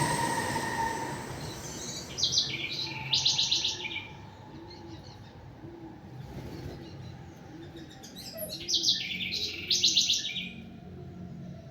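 Songbird singing two bursts of rapid, trilled high song, about two seconds in and again about eight seconds in, over a faint low note repeating steadily. A loud rushing noise with a steady whine fades out over the first two seconds.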